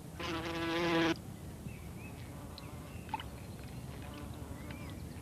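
A flying insect's wings buzzing in one steady hum for about a second near the start, followed by faint bird chirps.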